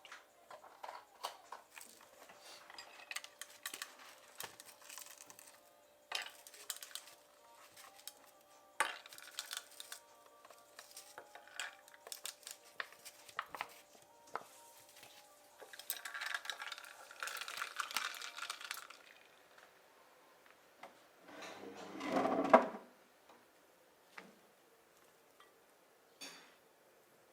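Dishes and cutlery clinking and clattering in a string of short, light knocks, with a noisier scraping stretch past the middle and one louder swelling sound lasting about a second near the end.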